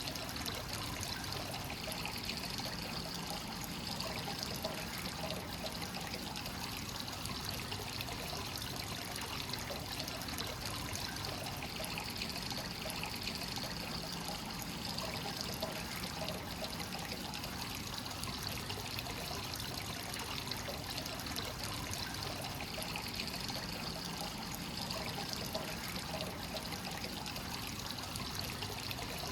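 Free-flowing hot spring water pouring steadily into a rock bath, running without a break.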